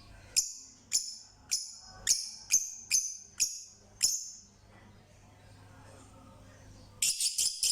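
A bird calling with a run of sharp, high chirps, about two a second, then a quick burst of several more near the end.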